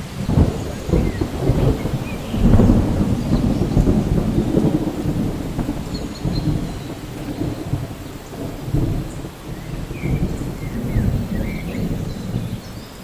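Steady rain with rolling thunder: a deep rumble swells in about two and a half seconds in and keeps rolling, rising and falling, under the hiss of the rain.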